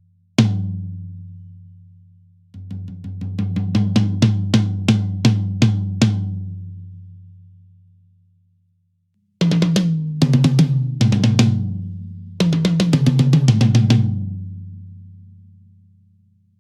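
Close-miked toms of a Yamaha Recording Custom drum kit played with sticks and recorded raw. A single hit rings out, then comes a run of about eight even strokes. After a pause of about three seconds there are two quick fills, and every stroke leaves a deep pitched ring.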